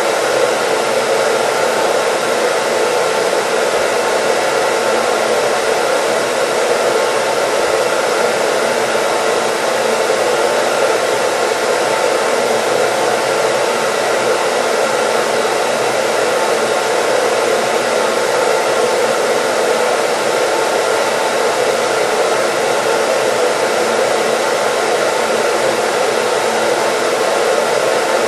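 Hair dryer running steadily: an even rush of air with a few faint steady tones from its motor.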